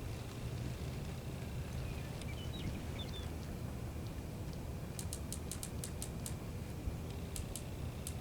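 Small sharp clicks from the rifle sight's elevation adjustment being turned: a quick run of about eight clicks in just over a second, then a few more near the end, over steady wind rumble on the microphone.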